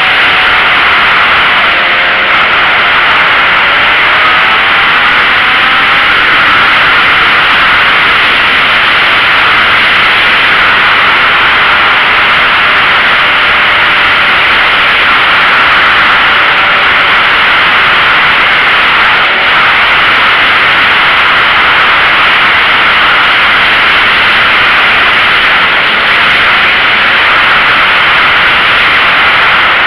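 Loud, steady wind rush over the microphone while riding a sport bike, with the motorcycle engine faintly heard rising in pitch a few times in the first several seconds.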